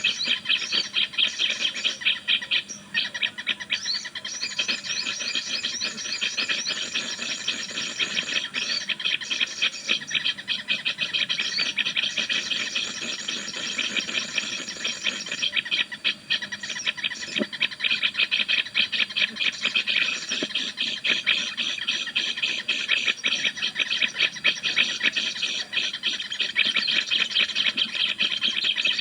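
Small birds chirping in a dense, unbroken stream of rapid high-pitched notes, many to the second.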